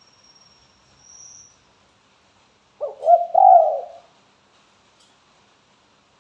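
Spotted dove (tekukur) cooing: one phrase of a few low notes about three seconds in. A faint high thin tone runs through the first second and a half.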